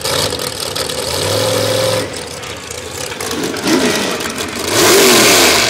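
Mud truck engine running loudly. Its note is steady for about two seconds, then it revs up and down, with the loudest burst of revving about five seconds in.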